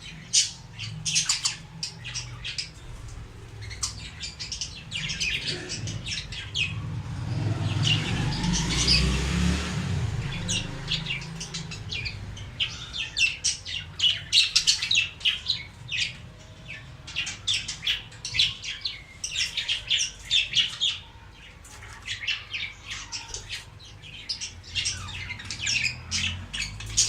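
Budgerigars chattering, a steady run of short, rapid high chirps and squawks. A broad rushing noise with a low rumble swells and fades about seven to eleven seconds in.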